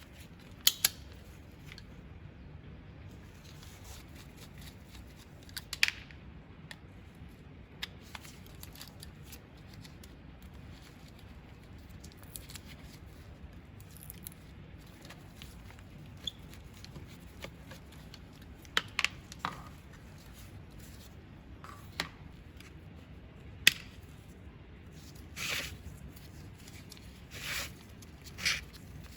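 Hand work on an angle grinder's parts: scattered sharp clicks and light taps every few seconds over a low steady hum, with a few short scraping sounds near the end.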